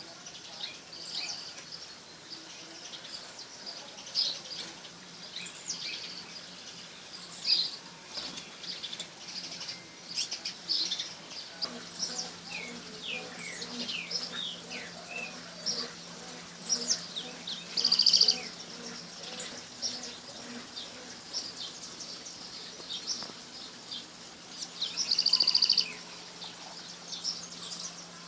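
Songbirds chirping and calling, many short notes overlapping, with two louder, longer calls about eighteen and twenty-five seconds in. A faint steady low hum sits underneath from about twelve seconds in.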